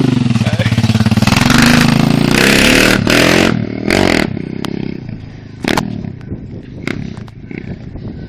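250 cc dirt bike engine revving hard for about three and a half seconds, then the engine sound drops away and fades. A few sharp clicks follow later.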